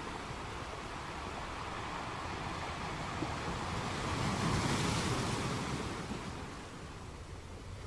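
Ocean waves: a steady wash of surf that builds to one louder breaking wave about four to five seconds in, then fades back down.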